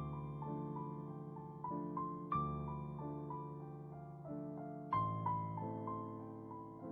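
Slow piano music: a chord struck about every two and a half seconds, with single melody notes ringing out between them.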